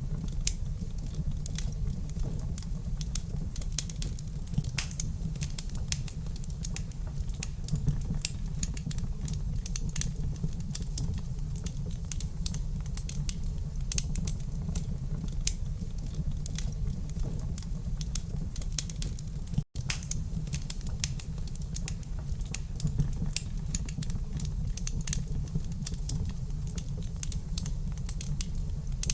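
Wood fire crackling in a fireplace: irregular sharp pops and snaps over a steady low rumble of burning. The sound cuts out for an instant about twenty seconds in.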